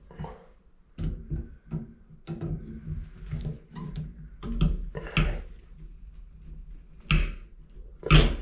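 Irregular knocks, clicks and scraping of hands and tools working at a shower valve cartridge that will not come out, with two sharper knocks near the end.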